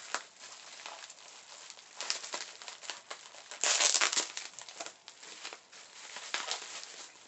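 Bubble wrap crinkling and rustling as it is pulled off a wrapped item, in irregular bursts, with the loudest burst about four seconds in.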